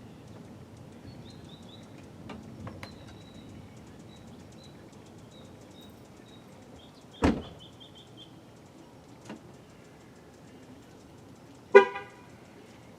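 Steady outdoor ambience with small birds chirping in short runs of high notes. A single sharp knock comes about seven seconds in, and a brief loud pitched toot near the end.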